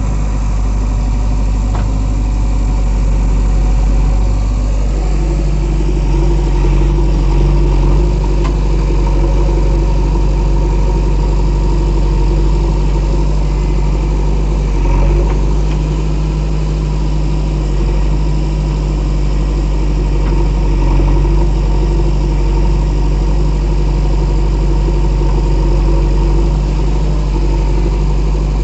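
JCB 3DX backhoe loader's diesel engine running steadily with a deep low hum; its note rises a little about five seconds in and then holds.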